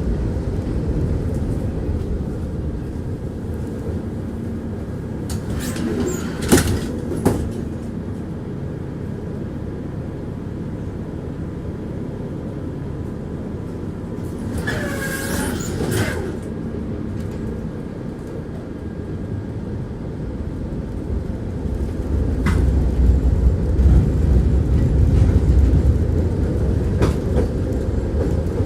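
Tram running on its rails, heard from inside: a steady rumble of the wheels, with two sharp clicks about six and seven seconds in and a brief high squeal of wavering pitch around the middle. The rumble grows louder over the last several seconds.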